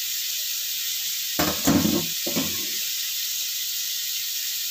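Beef pieces and spice paste sizzling steadily in oil in a wok, with a few brief knocks about a second and a half in.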